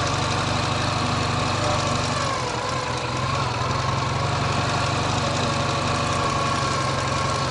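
Ural motorcycle's flat-twin engine running steadily as the sidecar outfit rolls along at low speed; the engine note sags slightly about two and a half seconds in and picks up again a second later.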